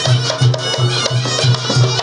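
Reog Ponorogo gamelan accompaniment: a steady low percussion beat of about three strokes a second under ringing metallic tones.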